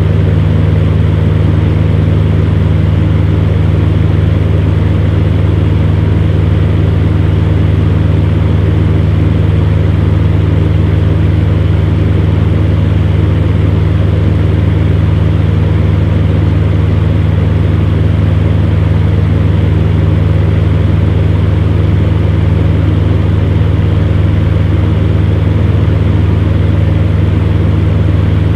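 Fan heater running steadily: a constant low motor hum over the rush of air from its fan, unchanging throughout.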